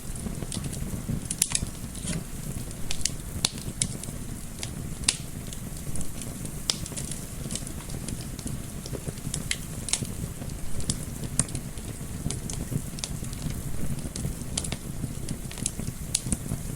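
Wood fire in a fireplace crackling, with irregular sharp pops a few times a second over a low, steady rumble of gentle wind.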